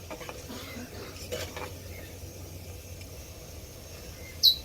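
Bolinho de chuva dough frying quietly in hot oil, with a couple of light clicks. Near the end, one short, high bird chirp that glides down.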